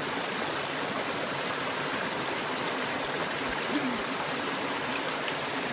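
Creek water running steadily over rocks, an even, constant rushing.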